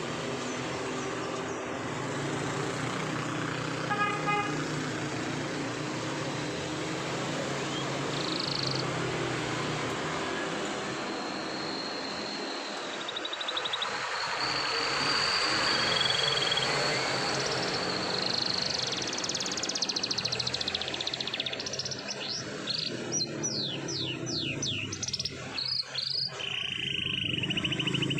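Domestic canary singing a long rolling song: high sustained trills, then a run of quick sweeping notes near the end, over steady low background noise.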